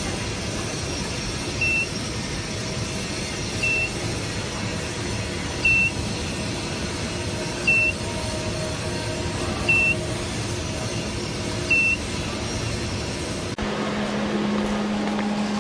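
A short, high electronic beep repeats about every two seconds over steady machinery noise. Near the end the machinery noise gives way suddenly to a steady low hum.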